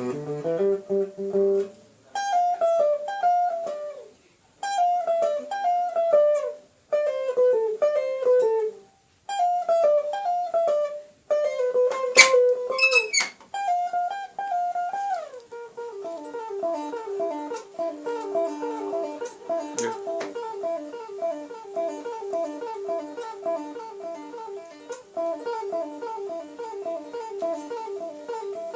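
Guitar played solo: short descending runs of plucked notes with brief pauses between them, then from about halfway a fast, steady picked pattern without breaks.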